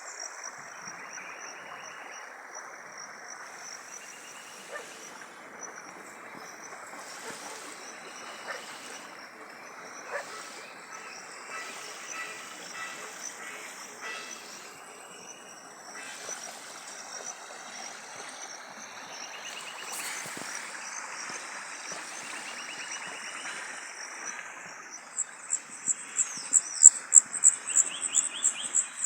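A river rushing steadily over its bed, with a thin high insect drone above it. Near the end a loud, rapidly pulsing high-pitched chirping starts up.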